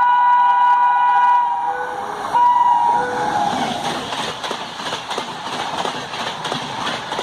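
Locomotive air horn sounding one long blast that stops about a second and a half in, then a short second blast. An express train then passes at speed with rapid clickety-clack of wheels over rail joints.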